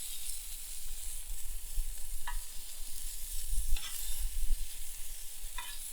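Bacon-wrapped chicken poppers sizzling in their own fat on a well-seasoned Biji over a campfire, with about three short pops spread through. Wind rumbles on the microphone.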